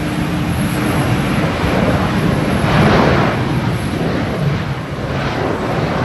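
Jet engine noise from an Airbus A321-211 landing in strong wind: a loud, steady rush that swells to its loudest about three seconds in.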